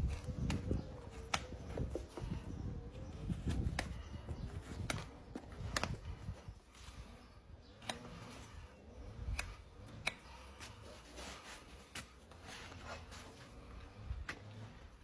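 A tool scraping packed dirt out of a horse's hoof: irregular sharp clicks and scrapes over a low, uneven rumble.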